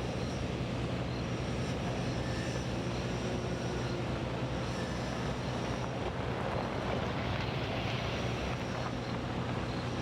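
Steady drone of a large engine or machinery running, with a constant low hum.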